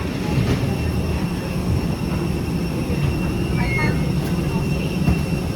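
Steady low mechanical rumble with a thin, steady high whine above it.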